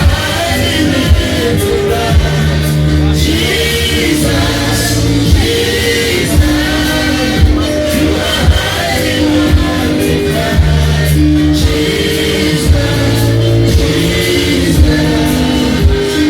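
Music with singing and a steady beat, with loud regular thumps about once a second: a group singing a praise song.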